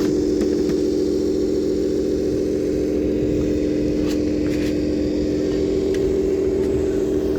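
A steady machine hum with one strong, low, unchanging tone, and a few faint clicks.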